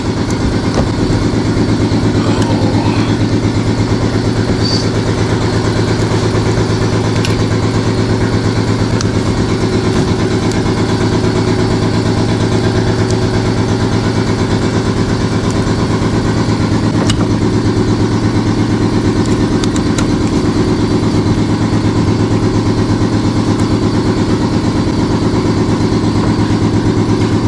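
A motor runs steadily with a fast, even throb, and it does not change. A few faint clicks are heard over it.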